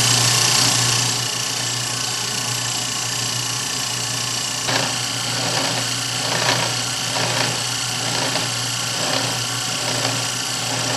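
Tire-shaving machine running, its rotary cutter shaving rubber off a spinning car tire in a steady rasping whir over a motor hum. From about halfway in, a stroke repeats about once a second as the cutter bites the tire's high section each turn: the tire is out of round and is only shaved partway around so far.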